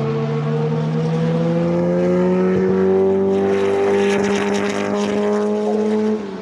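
Historic racing sports car engine running hard, its pitch rising slowly as it accelerates, then cutting off suddenly near the end.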